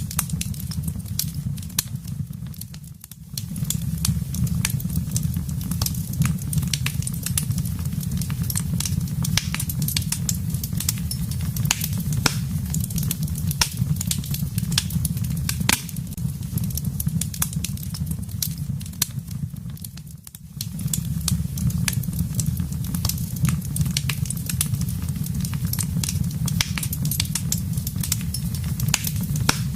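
Wood fire crackling, with frequent sharp pops and snaps over a steady low rumble of burning. The level dips briefly twice, about three seconds in and again near the middle.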